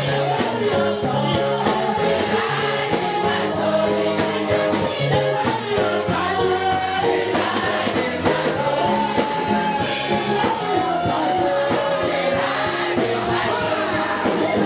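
Gospel choir singing over steady band accompaniment with a bass line, in a continuous song.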